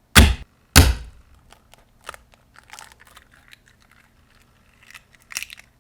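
Raw eggs cracking under a durability test: two loud, sharp cracks within the first second, then small crackling of broken shell, and a weaker crack near the end.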